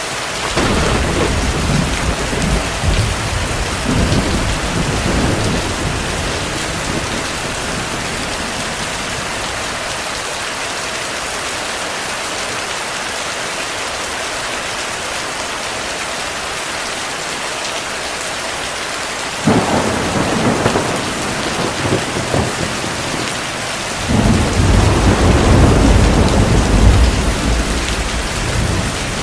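Heavy rain falling steadily with rolls of thunder: one rumble at the start that dies away over several seconds, another that breaks in sharply about two-thirds of the way through, and the loudest, longest rumble near the end.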